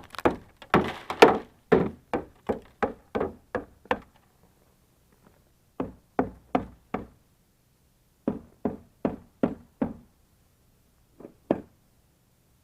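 Repeated knocking on the ice-coated body of a pickup truck to break off the ice: a quick run of about a dozen knocks, a pause, then three shorter runs, the last of just two knocks near the end.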